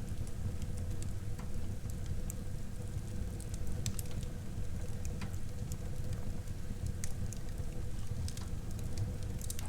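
Wood fire burning in a fireplace: a steady low rumble of the flames, with scattered sharp crackles and pops.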